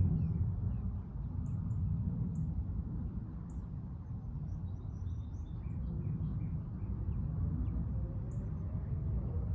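Outdoor park ambience: a steady low rumble with small birds chirping in short, scattered high notes.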